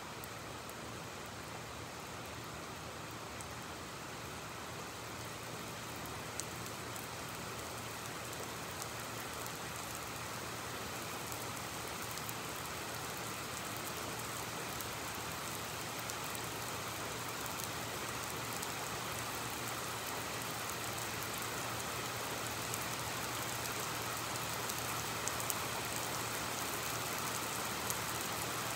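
Steady rain falling, growing gradually heavier, with scattered drops ticking close by and a steady low hum underneath.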